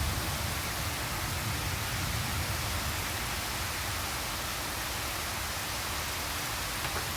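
Torrential rain falling in a steady, even hiss.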